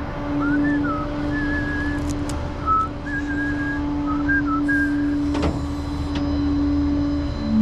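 A person whistling a tune in short held notes that step up and down, over a steady engine hum. A single knock comes about five and a half seconds in.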